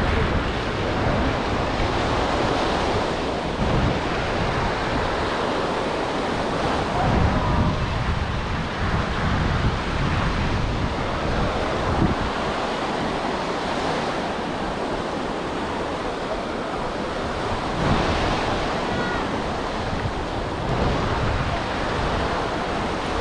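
Sea surf washing onto a sandy beach in steady swells, with wind gusting on the microphone.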